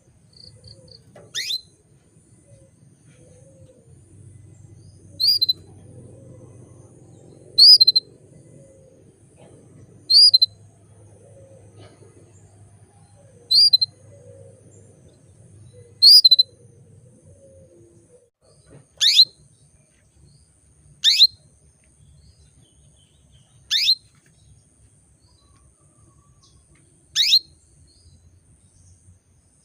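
Female domestic canary giving single short calls, ten in all, about two to three seconds apart; the later calls are quick downward-sweeping notes. These are the calls of a hen canary in breeding condition calling for a male.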